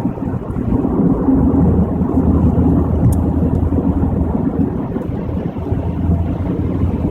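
Steady low road rumble of a car driving on a highway, heard inside the cabin: tyre and engine noise with no letup. A single short click about three seconds in.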